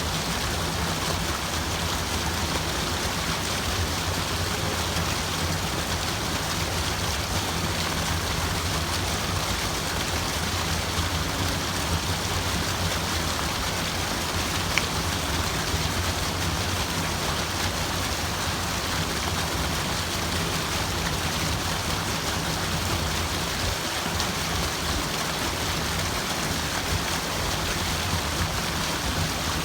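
Steady rushing of running water, an even, unbroken wash of sound, with a single faint click about halfway through.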